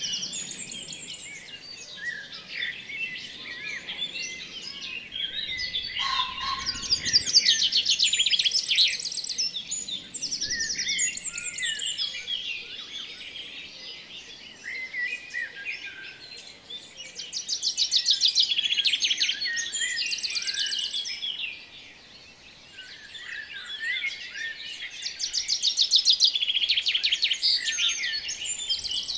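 Many small birds chirping and twittering, with bouts of rapid trills that swell and fade three times.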